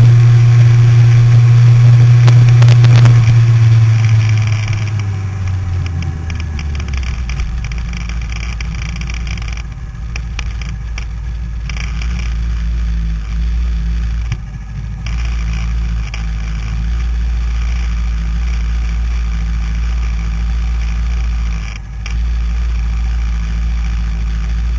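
Motorcycle engine running loudly for about the first four seconds, then dropping off as the bike slows and settling into a steady low idle, with a couple of brief dips.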